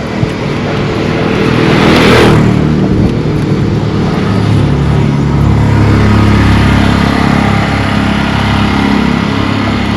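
Road traffic: a motor vehicle passes close, its noise swelling to a peak about two seconds in, then an engine runs steadily.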